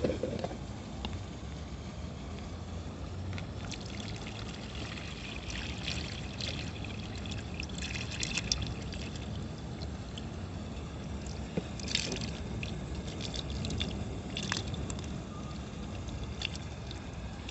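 Water trickling and lightly splashing in small clusters of sharp little splashes, over a steady low background rumble.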